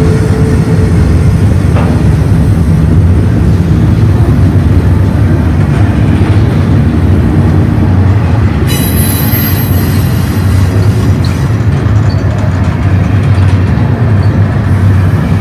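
Double-stack intermodal container well cars rolling past close by, with a steady, loud rumble of steel wheels on the rails. A faint high squeal joins about halfway through.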